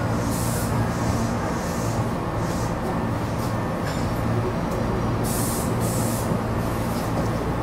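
Tobu Urban Park Line electric train at the platform with a steady low hum, broken by a few short hisses of air, typical of air brakes or pneumatics venting.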